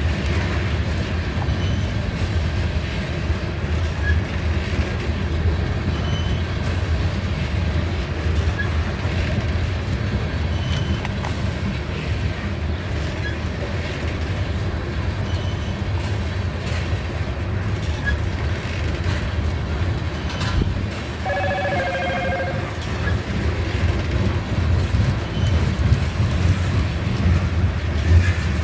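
A train rolling past at steady speed: a continuous low rumble of rail car wheels on track, with scattered light high-pitched squeaks and clicks.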